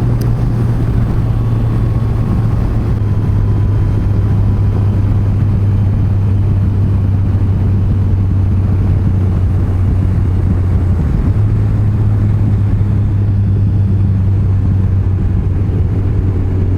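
Yamaha FJR1300's inline-four engine running at a steady cruise under a constant rush of road and wind noise. Its note drops a little about three seconds in and rises again about eleven seconds in.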